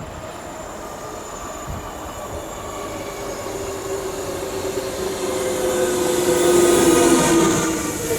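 Electric train approaching through the station, growing steadily louder, with a whining tone that sinks slightly in pitch as it nears and a rising hiss of wheels on rails.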